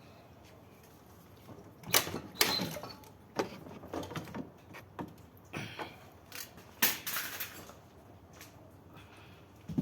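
Irregular clatter of sharp knocks, clicks and short scrapes from hard objects being handled. It starts about two seconds in and dies away after about seven and a half seconds, with the loudest knocks near the start and around the middle.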